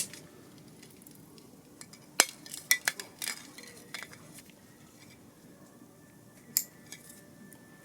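Cutlery and dishes being handled, a few separate sharp clinks and knocks spaced irregularly, the loudest a little after two seconds and again about six and a half seconds in. A faint steady high tone runs underneath in the second half.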